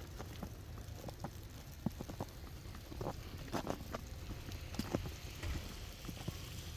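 Footsteps crunching in snow at an irregular pace, short crisp crunches over a steady low rumble of wind on the microphone.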